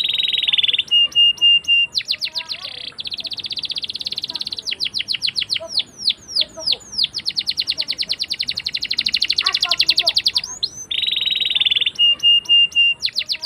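Domestic canary singing a continuous song of long, fast trilled rolls. The song includes a run of quick downward-sweeping chirps midway and short bursts of steady, evenly repeated notes, with its phrases repeating.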